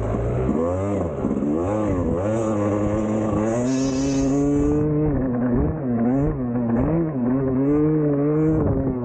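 Two-stroke dirt bike engine being ridden hard, revving up and dropping back again and again, its pitch rising and falling every second or so. About four seconds in there is a brief burst of hiss.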